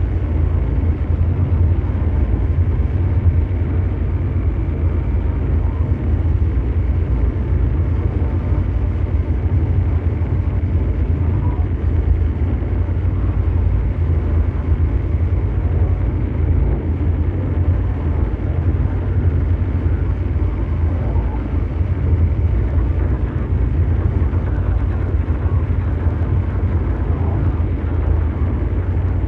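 Continuous mechanical drone noise: a steady, deep brown-noise rumble, strongest in the lowest pitches, with a fainter hiss above and no change throughout.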